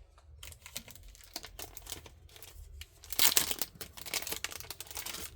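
Plastic packaging crinkling and rustling as it is handled, a dense run of crackles that is loudest about three seconds in.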